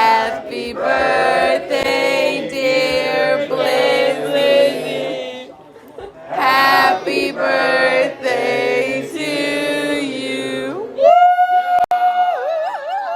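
Singing voices with music. About eleven seconds in, a single long held note takes over and then starts to waver.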